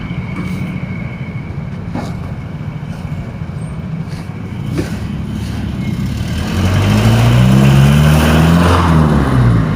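Steady low engine and road rumble with a few faint clicks. About six and a half seconds in, a louder vehicle engine comes in close, rises in pitch and then falls away near the end, as it revs up and eases off.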